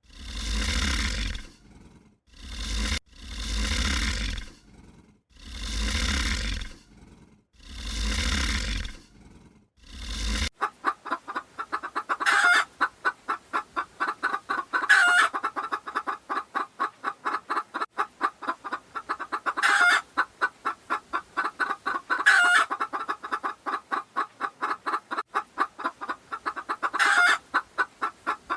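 Domestic fowl clucking in a fast, steady run of short notes, with louder calls every two to five seconds. Before them, for the first ten seconds or so, a large animal calls five times, each call deep and loud, about two seconds apart, before a sudden switch to the fowl.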